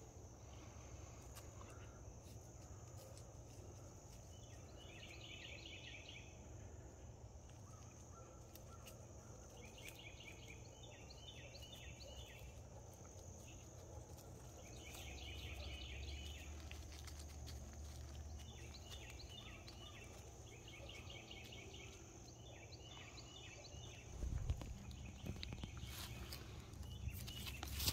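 Faint outdoor ambience with a small bird calling in short, quick trills about every two to three seconds, over a low steady rumble; a soft thump comes near the end.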